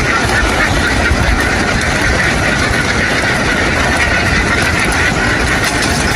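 Boat engine running steadily under the constant din of a large flock of ducks.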